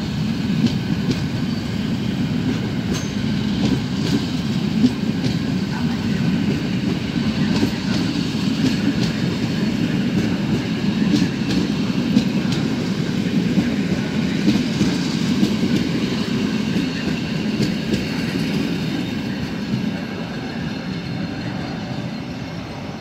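Vintage passenger coaches of a departing train rolling past: a steady rumble of wheels with clicking over the rail joints and a faint wheel squeal, easing off near the end as the last coach pulls away.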